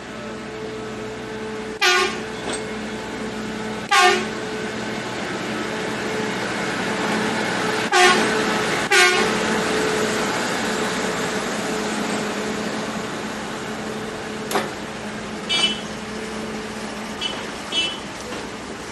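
Train passing with a steady engine drone that swells and then eases off, sounding four short horn blasts in the first half, followed by several fainter, higher short toots.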